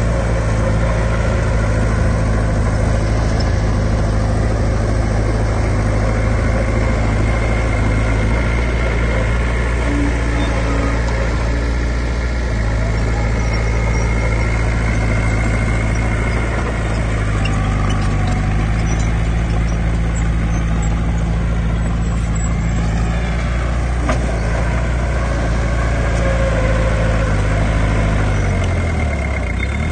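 Heavy diesel earthmoving machinery running steadily with a low engine note. The engine speed shifts about two-thirds of the way through and drops briefly near the end.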